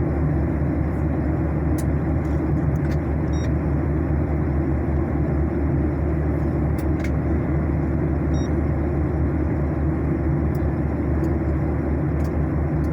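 Steady jet airliner cabin noise in flight, a dense low rumble of engines and airflow heard from inside the cabin. Faint irregular ticks and a faint short beep about every five seconds sit above it.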